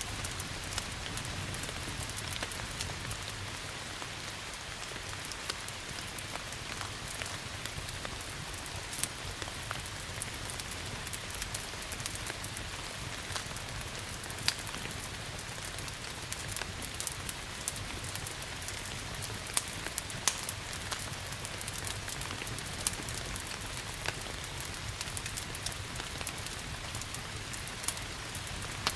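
Steady rain hiss mixed with a wood fire's crackling, with frequent small crackles and a few louder pops scattered through.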